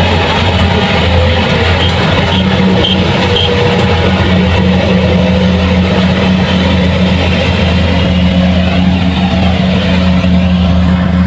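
Kubota rice combine harvester's diesel engine running steadily, a loud, constant low drone with the noise of the machinery over it.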